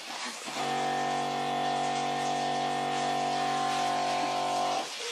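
Electric pump of a chicken-injection machine running with a steady hum, forcing liquid into a chicken carcass to add weight. It starts about half a second in, runs evenly for about four seconds, and cuts off near the end.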